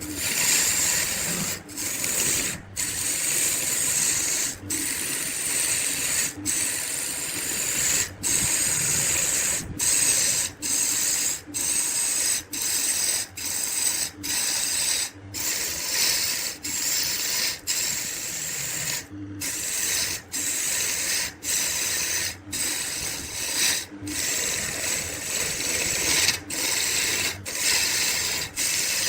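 Wood lathe turning, a cutting tool shaving the spinning wood with a steady hissing scrape. It is broken by short, near-silent gaps every second or two.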